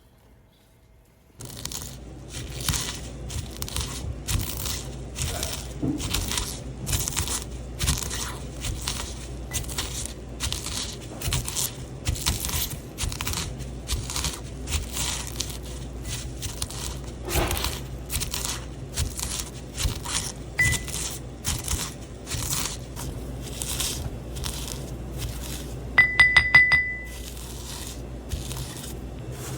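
Kitchen work: many quick clinks, taps and scrapes of utensils and glassware over a steady low hum. Near the end comes a quick run of high electronic beeps from an appliance.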